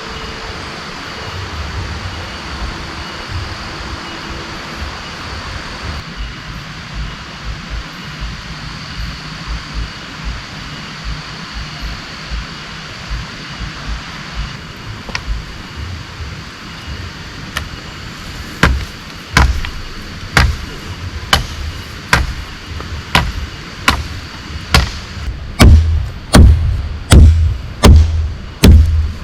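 Steady rain with a high steady insect-like tone in the background. About halfway through, a series of sharp knocks begins; they become loud and regular, about one a second, then quicken to about two a second near the end.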